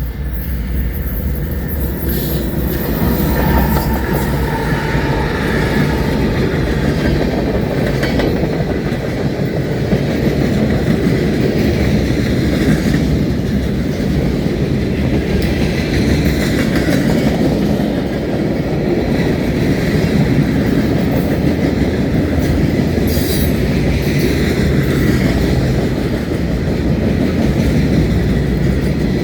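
Canadian Pacific freight train rolling steadily past: a continuous heavy rumble of steel wheels on rail, with clickety-clack over the rail joints.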